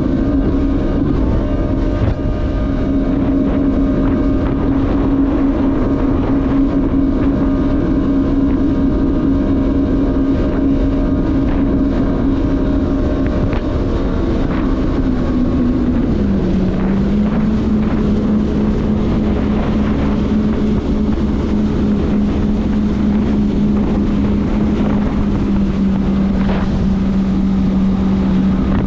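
Jet ski engine running steadily at speed, with wind buffeting the microphone. About sixteen seconds in the engine note drops to a lower pitch and holds there.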